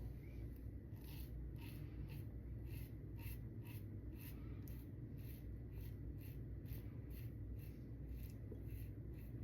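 Lambda Ares v2 double-edge safety razor with a Tatra blade cutting lathered stubble. It makes short, crisp scraping strokes, roughly two a second and unevenly spaced.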